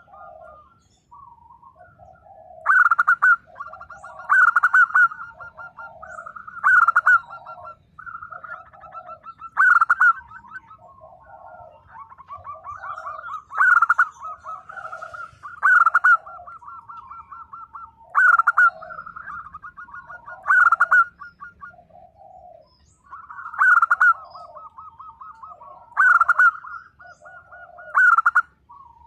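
Zebra dove (perkutut) cooing over and over. A loud, sharp phrase comes roughly every two seconds, each followed by a run of quick, softer lower coos in between.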